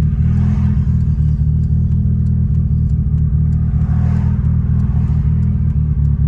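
Mitsubishi Lancer Evo 6.5's turbocharged 4G63 inline-four, running a Garrett G25-660 turbo on an otherwise stock engine, heard from inside the car as a loud, steady low engine drone while driving.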